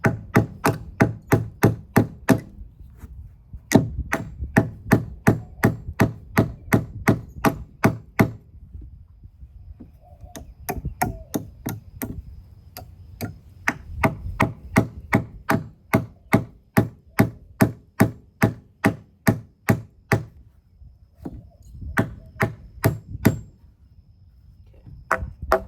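Hammer striking a nail into a wooden board: rapid, even blows, about three a second, in several runs with short pauses between them, driving the nail almost through the wood.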